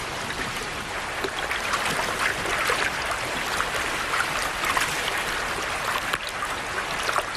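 Shallow creek water running steadily, with many small splashes scattered through it.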